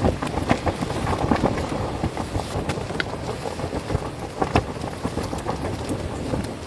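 Wind buffeting the microphone in a low, uneven rumble, with scattered short crackles and snaps over it.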